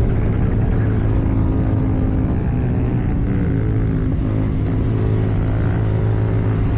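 KTM Duke 790's parallel-twin engine running at fairly steady revs through an Akrapovič exhaust while riding.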